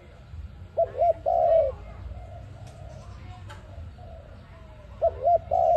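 Dove cooing: a phrase of two short, looping coos followed by a longer coo, given twice, about a second in and again near the end.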